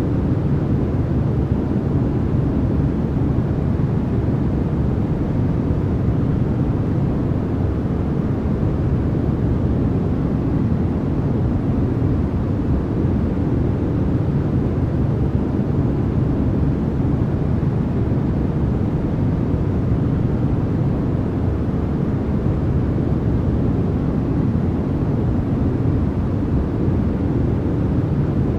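Continuous generated white noise: an even, unchanging rush with most of its weight low down and little hiss at the top.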